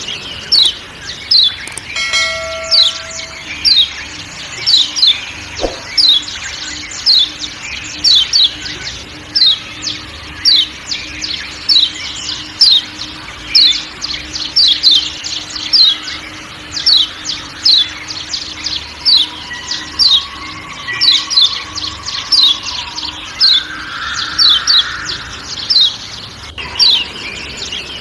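Lombok yellow white-eye (kecial kuning, a Zosterops white-eye) giving its 'ciak ciak' call: short, sharp, downward-sliding chirps repeated steadily, often in pairs, about two a second, over forest background sounds.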